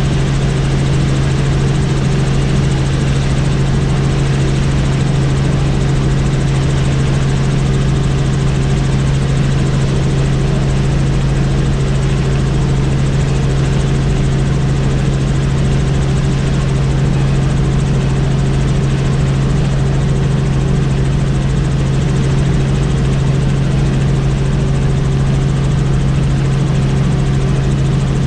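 Helicopter in steady flight: a constant loud drone made of a strong low hum and a few fainter higher tones over an even rushing noise, unchanging in level or pitch.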